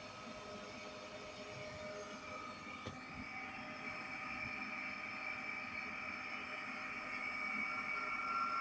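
Kawamoto JF250S well pump's electric motor running with a steady whine, slowly getting louder, with a faint click about three seconds in. This is the abnormal noise the pump makes when powered.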